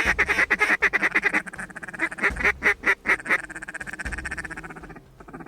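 Duck quacking: a fast chattering run of quacks, then a handful of separate loud quacks about two to three seconds in, then a softer, steady rapid chatter that fades near the end.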